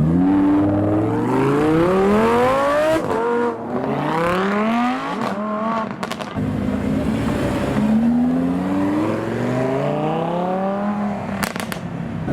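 Supercar engine accelerating hard through the gears. Its pitch climbs, falls at upshifts about three and six seconds in, then climbs again, with sharp exhaust cracks at the second shift and near the end.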